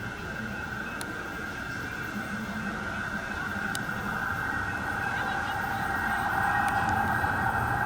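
Light rail train approaching, growing steadily louder, with a steady high-pitched whine over a low rumble.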